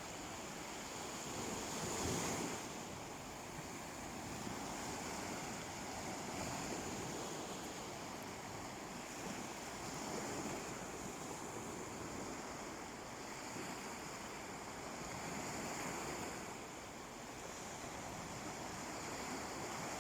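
Sea waves breaking gently and washing up a beach, the surf swelling and easing every few seconds, loudest about two seconds in.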